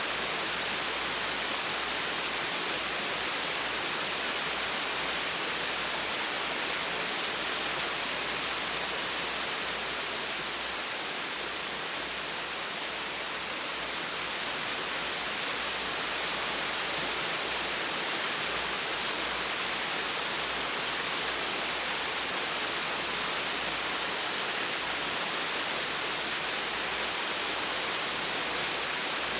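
Small waterfall splashing: a steady, even rush of falling water with no change.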